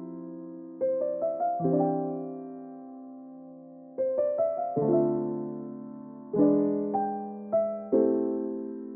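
Background music: soft solo piano playing slow arpeggiated chords, each group of notes struck and left to ring and fade.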